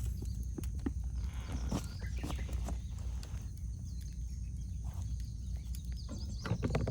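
Wood fire crackling, with irregular sharp pops and snaps over a steady low rumble. Small birds chirp faintly in the background.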